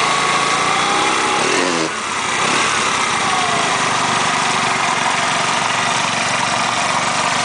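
Small motorcycle engine held at high revs, being revved to blow built-up carbon out of the exhaust after a new spark plug was fitted. About two seconds in, the revs drop sharply and briefly, then climb back and stay up.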